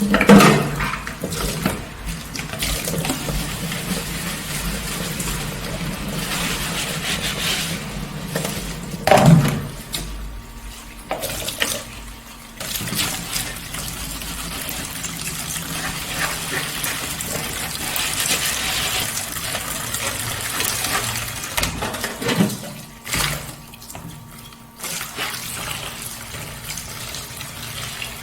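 Kitchen tap running into a sink during dishwashing, with a few sharp knocks, such as dishes being handled. The water drops away briefly twice.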